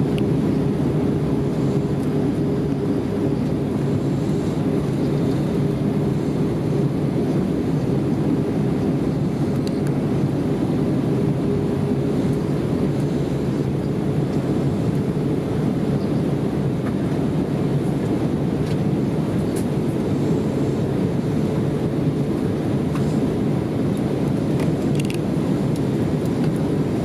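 Airbus A320 cabin noise in flight: a steady, loud rumble of engines and airflow with a faint constant hum riding on top.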